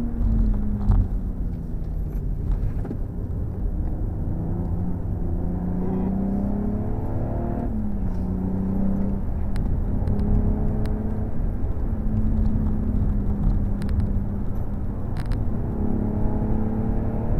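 BMW M135i's turbocharged straight-six with an M Performance exhaust, heard from inside the cabin at track speed. The engine note falls over the first few seconds, climbs again, drops sharply with an upshift about eight seconds in, then holds and rises under load, over a steady rumble of road and tyre noise.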